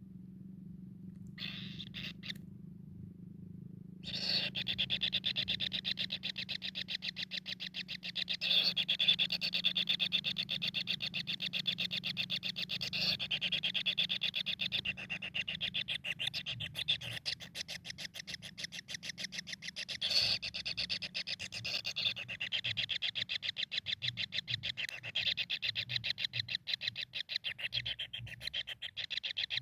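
Kingfisher calling: a fast, high, rattling trill that comes in as a couple of brief bursts, then runs continuously from about four seconds in with small breaks. A steady low hum lies underneath.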